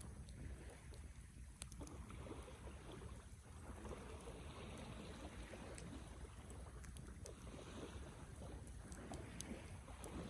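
Wood fire burning with a low, steady rushing and scattered sharp crackles and pops, one louder pop about nine seconds in.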